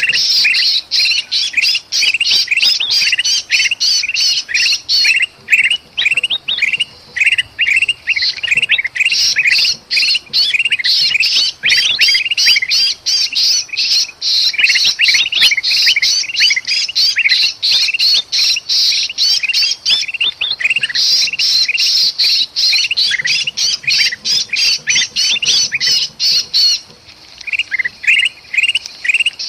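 Bulbuls (kutilang emas) chattering nonstop in an agitated, noisy chorus, mixed with the harsh squawking distress calls of a trapped bulbul: a recording used to lure birds. The calls are rapid and high, several a second, with a couple of brief lulls.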